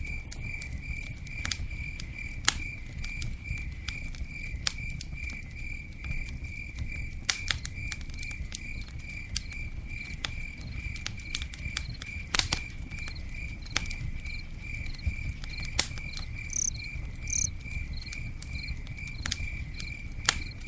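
Campfire crackling, with scattered sharp pops over a low rumble of burning wood. A cricket chirps throughout in a steady, even pulse.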